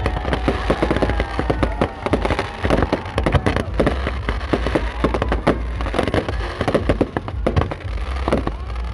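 Fireworks display: a dense, continuous run of bangs and crackling reports, with gliding whistles in the first couple of seconds and again near the end.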